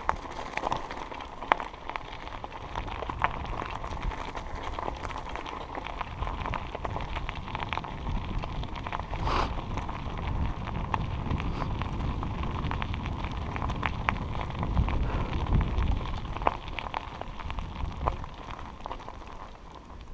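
Bicycle riding on a wooded trail: wind rumbles on the microphone over a steady crackle of tyres on the ground, with many small sharp clicks and knocks from the bike. The rumble swells for a second or two about three-quarters of the way through.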